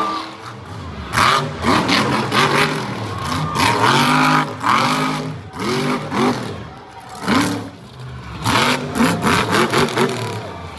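Monster truck engine revving hard up and down over and over, its pitch rising and falling about once a second. Short sharp bangs come in between.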